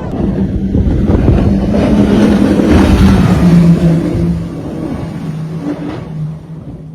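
Speedboat engines running hard at speed, a steady drone under loud rushing wind and water noise, swelling about two seconds in and then easing off near the end.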